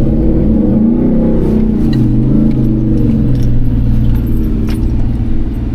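First-generation Ford Raptor's V8 engine heard from inside the cab on a dirt track, its pitch rising and falling with the throttle in the first few seconds, then running steadily. Loose metal items jingle in the cab.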